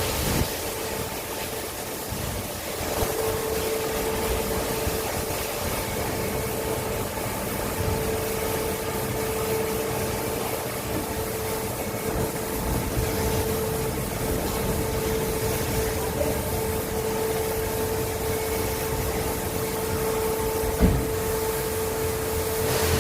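Steady machine hum with a constant tone over a hiss, from motor-driven equipment running in a dairy milking shed. A single knock comes near the end.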